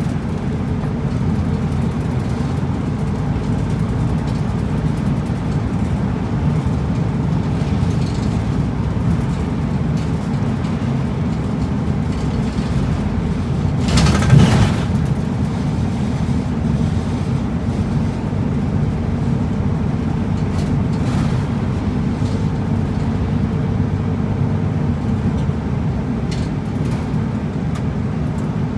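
Route bus engine and running noise heard inside the cabin, a steady low rumble, with one brief louder rushing noise about halfway through.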